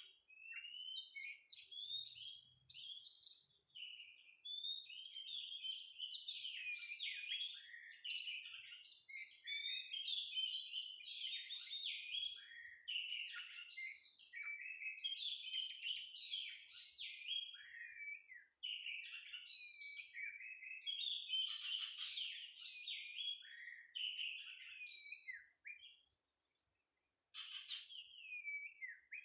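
Oriental magpie-robin (kacer) song: a continuous run of varied whistles, trills and chattering notes with hardly a pause, alongside a steady high-pitched whine.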